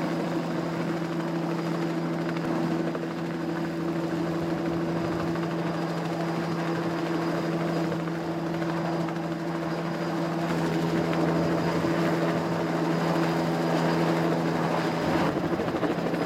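Helicopter running with a steady engine drone, getting a little louder in the second half.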